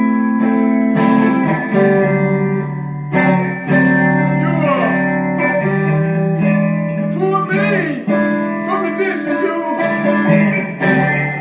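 Guitar playing the accompaniment of a slow gospel song between sung lines, held chords with new notes struck every second or so.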